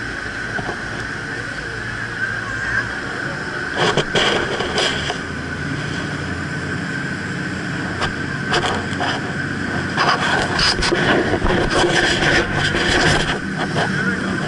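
Jet boat engine running steadily under way, with wind rushing past. Short bursts of noise come from about four seconds in and grow more frequent near the end.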